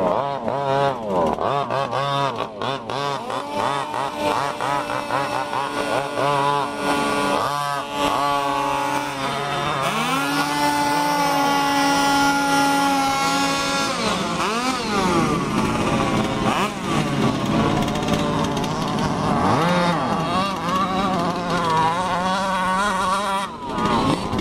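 Small engines of large-scale radio-controlled cars running on a track, several at once, their pitch rising and falling as they rev and ease off. From about ten seconds in, one engine holds a steady high rev for around four seconds.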